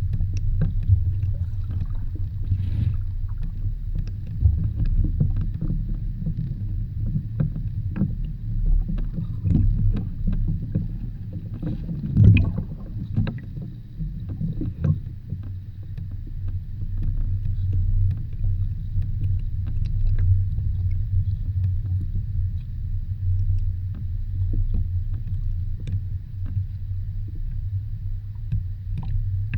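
Muffled water rumble, steady and low, with many small scattered clicks and a louder knock about twelve seconds in.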